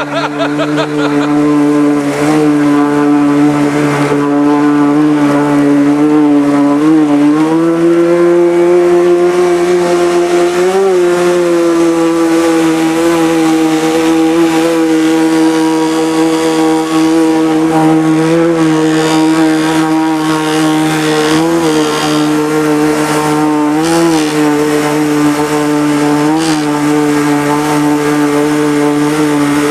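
Engine of a home-built amphibious Subaru running at a steady cruising speed under way, picking up slightly about a quarter of the way in, with a few brief wavers in pitch.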